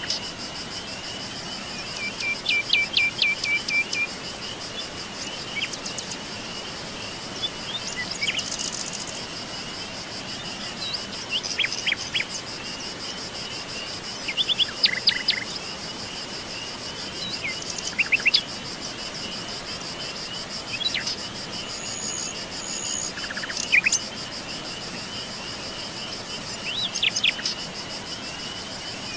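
Wild birds calling with short chirps and quick trills, a burst every few seconds, over a steady pulsing insect chorus.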